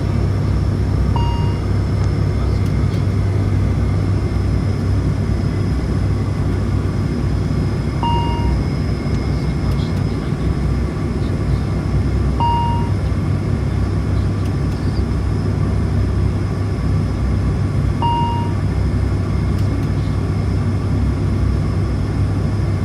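Steady drone of an ATR 72-600's turboprop engines and propellers heard in flight on approach, with a low hum and faint steady high whines. Short electronic beeps sound four times over it.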